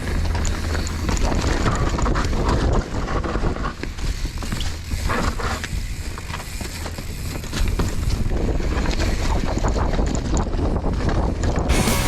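Wind buffeting a GoPro action camera's microphone as a mountain bike rides down a trail, with the bike rattling and knocking over rough ground.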